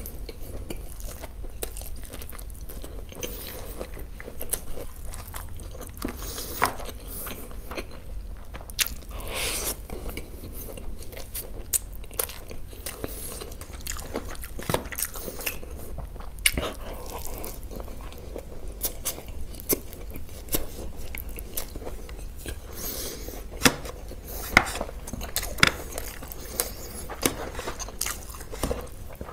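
A person biting and chewing crunchy food, with many irregular sharp crunches.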